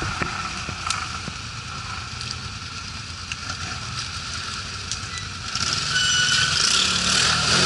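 ATV engine running steadily with a constant whine over a noisy rush; the sound grows louder about five and a half seconds in.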